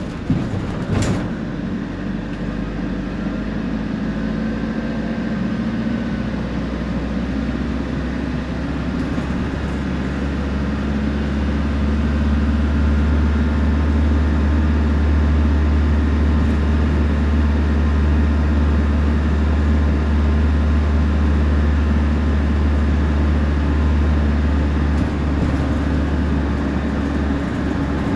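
Temsa Prestij SX midibus engine and drivetrain running under way, with a strong low drone that builds over the first ten seconds or so and then holds steady. A faint high whine comes and goes a few seconds in, and there is a single sharp knock about a second in.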